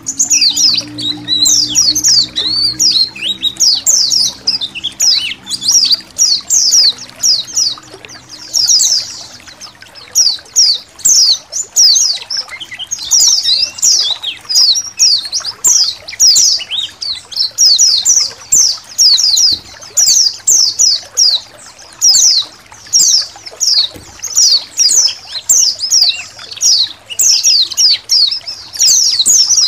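A flock of white-eyes (pleci) twittering nonstop in quick, high chirps over the sound of trickling water.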